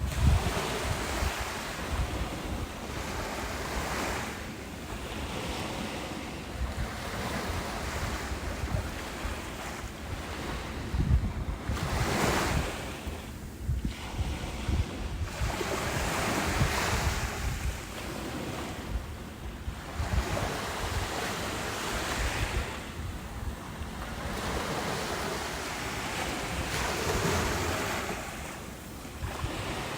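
Ocean waves breaking and washing up a beach, rising and falling in repeated surges every few seconds, with wind rumbling on the microphone underneath.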